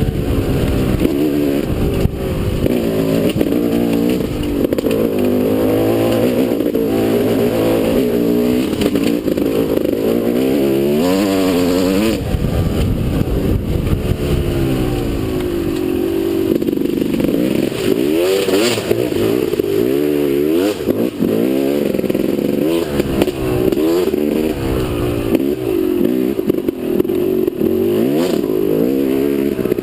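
Motocross motorcycle engine running hard and close, its pitch climbing and dropping over and over as the throttle opens and closes.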